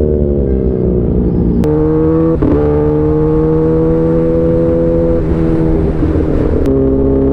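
Sport motorcycle engine pulling away and running under load. Its pitch holds level, then jumps to a new pitch in sudden steps about four times, as the gears are changed.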